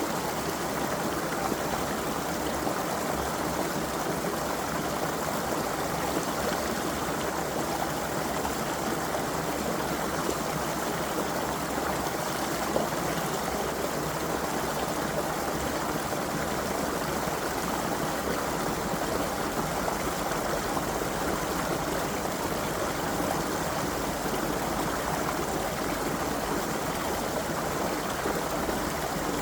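Creek water flowing steadily over stones, a constant babbling rush with no breaks.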